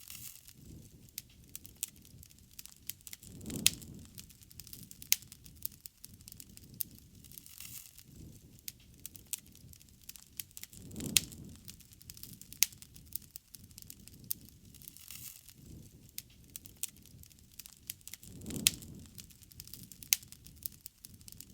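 A wood bonfire crackling, with frequent sharp pops and snaps of burning wood. Three times, about seven seconds apart, a low rumbling swell rises and falls.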